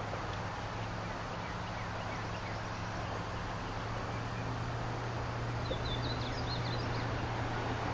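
A steady low hum under background noise, with faint scattered high chirps and a quick run of high bird chirps about six seconds in.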